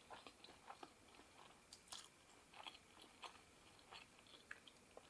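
A person chewing and biting food, heard as faint, irregular crunches and wet mouth clicks.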